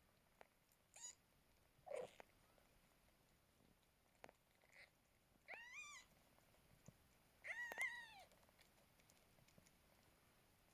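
Newborn kittens mewing: a couple of short high squeaks early on, then two longer, high-pitched mews that rise and fall, one about halfway through and one a couple of seconds later.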